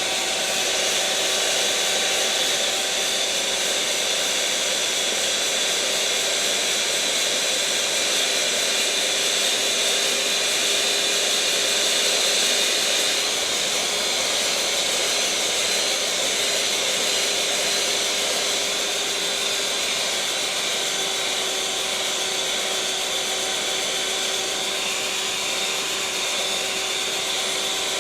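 Electric mixer running steadily at one speed: a continuous whirring hiss with a faint steady hum, with no change in speed or level.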